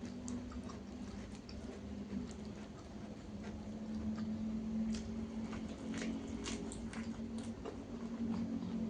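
A person chewing food close to the microphone, with scattered wet mouth clicks and smacks. A steady low hum runs underneath.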